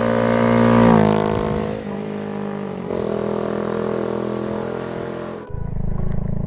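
Honda Grom's small single-cylinder engine running under way. Its pitch rises for about a second, then drops and settles to a steady run. Near the end the sound changes abruptly to a lower, rougher steady drone.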